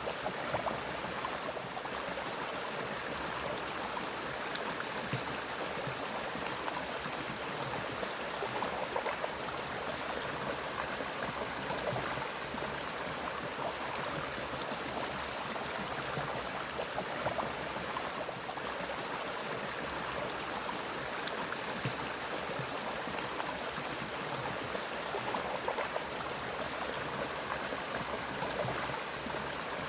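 Forest stream of water flowing down from the mountains, a steady even rushing and splashing. A thin, steady high-pitched tone runs along with it.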